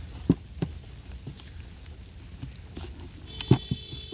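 A few sharp knocks and thumps from handling the compost bin and its contents, the loudest about three and a half seconds in, with a brief high steady tone near the end.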